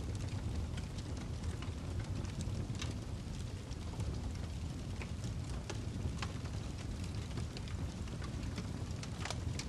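Wood fire burning in a fireplace: a steady low rumble of flames with frequent irregular crackles and pops from the burning log, one sharper pop near the end.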